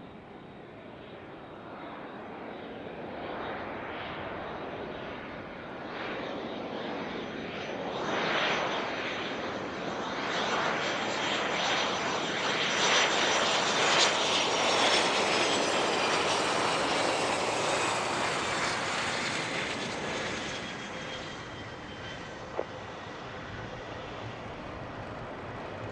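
Business jet passing close by on landing: its engine noise and whine grow to a peak about halfway through, then the whine falls in pitch and fades as it moves away. A single sharp click near the end.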